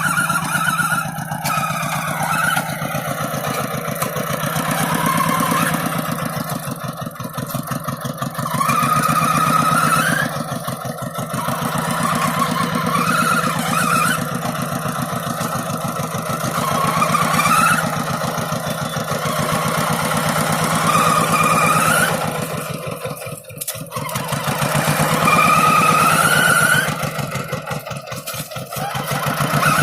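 Tractor engine running steadily while pulling a moldboard plough, its note rising again and again every few seconds as the load changes, with two brief dips in level late on.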